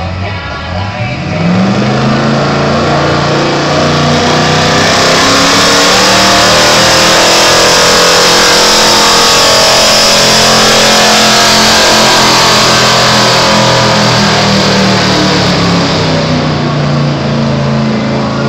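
Pulling truck's engine at full throttle as it drags the weight sled. The revs climb over the first couple of seconds, then hold high, loud and steady, and ease off slightly near the end.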